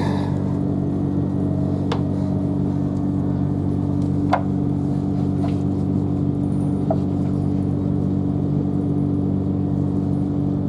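Interior running noise of a Class 377 Electrostar electric multiple unit travelling at steady speed: a constant hum of several steady tones over the rumble of wheels on rail, with a few brief clicks and knocks.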